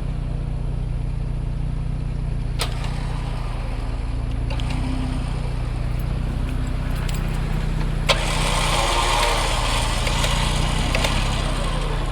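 Vehicle engine idling steadily, with a few sharp clicks, a louder knock about eight seconds in, and a rustling, scraping noise after it.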